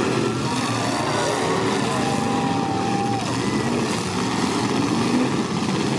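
Stock V8 engines of several demolition derby cars running and revving at once, their pitch rising and falling continually.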